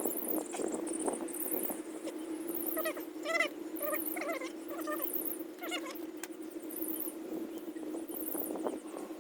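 A few short pitched animal calls in the middle, over a steady low hum and faint high chirps repeating about once a second. Light clicks and rustles come from hands tying plant supports onto corn stalks.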